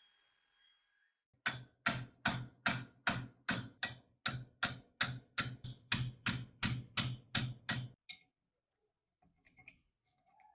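A fast, even series of sharp knocks, about three a second, starting about a second and a half in and stopping sharply after some six seconds, followed by a few faint clicks.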